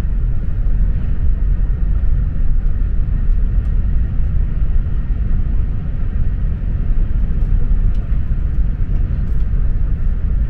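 OUIGO high-speed train running at speed, heard from on board: a steady, loud low rumble with a rushing hiss above it.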